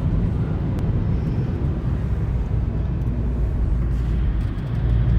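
Steady low rumble of vehicle noise. A louder, steady low hum comes in near the end.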